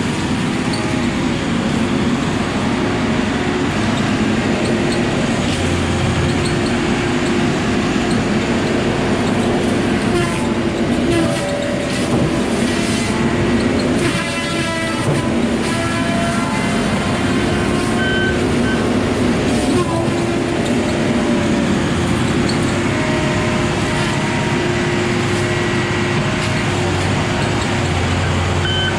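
Heavy diesel logging machinery running steadily under hydraulic load, a log loader working at a truck, with a constant droning tone. High gliding squeals and creaks come and go in the middle stretch.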